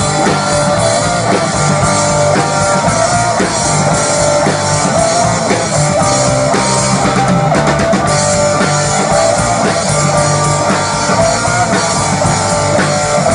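Rock band playing an instrumental passage live: guitars, bass and drum kit, with no vocals.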